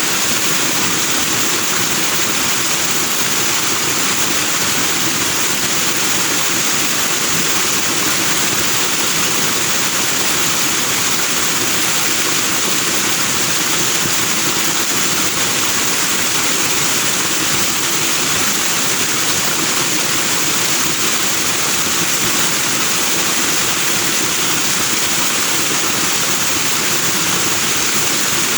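Forest stream rushing over rocks with white foam, a steady, even rush of water that does not change.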